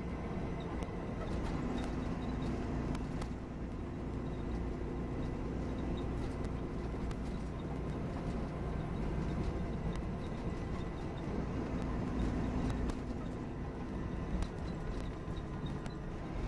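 Interior of a Volvo B9R coach on the move: steady engine and road rumble, the engine note rising and falling, with frequent small clicks and rattles from the cabin.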